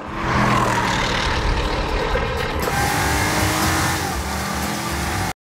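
Porsche Cayenne Turbo S's 4.5-litre twin-turbo V8 driven hard under acceleration, engine and road noise loud. The sound changes abruptly a little past halfway and cuts off suddenly near the end.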